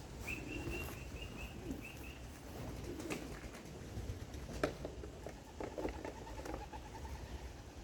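Young domestic pigeons calling and cooing. A short run of high chirps comes near the start, low cooing follows after about five seconds, and a few sharp taps fall in between.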